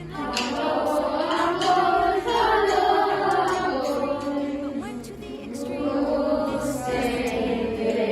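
A group of voices singing a melody together over musical accompaniment with steady bass notes.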